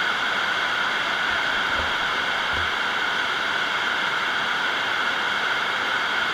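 Heavy rain falling, a steady loud hiss that never lets up.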